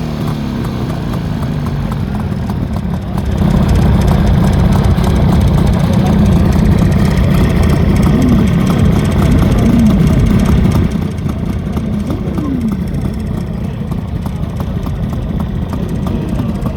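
Jawa 350 Twin Sport's two-stroke twin-cylinder engine running steadily. It grows louder about three seconds in and drops back near eleven seconds, with a few brief revs that rise and fall in pitch.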